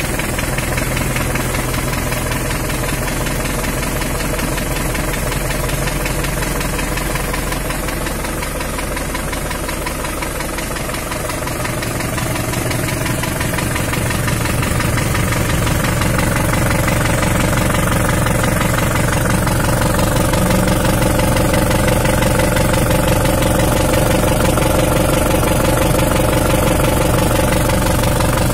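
Isuzu Panther diesel engine idling steadily, a little louder from about halfway through. This is a worn engine with blow-by ('ngobos'), which the owner says needs an overhaul.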